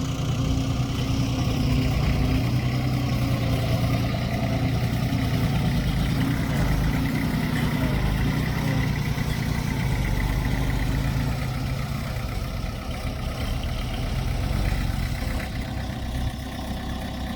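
Diesel engine of heavy earthmoving equipment running steadily, a little quieter in the last few seconds.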